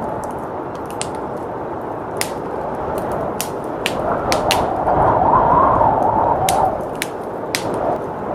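Wood fire crackling with scattered sharp pops over steady blizzard wind. The wind swells into a stronger gust about halfway through and eases off before the end.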